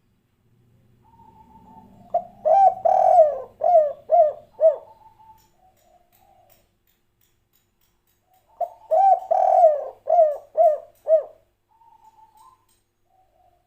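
Spotted dove (tekukur) cooing its 'kuk 3' song: two phrases of loud rounded coos, one starting about two seconds in and the other past the middle, with a few soft coos between them.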